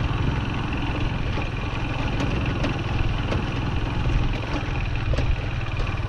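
Small farm vehicle engine running steadily at low speed while driving behind the cows, with a few light clicks and rattles.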